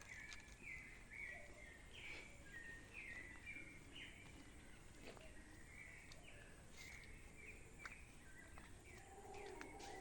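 Faint birds chirping over and over, short quick notes, with a lower drawn-out call joining near the end.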